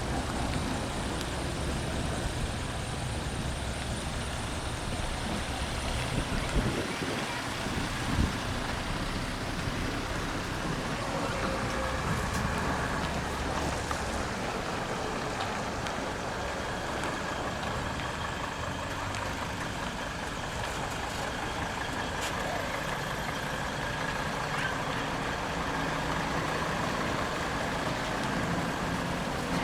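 Diesel engine of a heavy decorated truck running at low revs, a deep rumble that eases off about halfway through. Two sharp clicks come about seven and eight seconds in.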